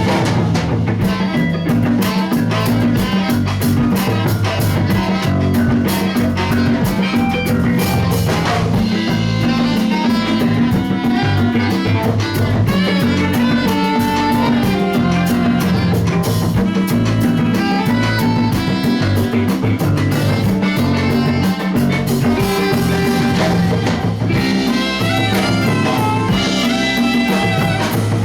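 A band playing live music with drum kit, guitar and horns.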